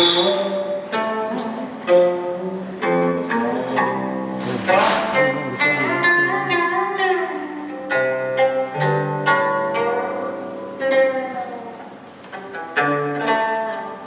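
Live instrumental duet of a guzheng (Chinese plucked zither) and a bowed string instrument: a run of sharply plucked, ringing notes over longer held bowed notes.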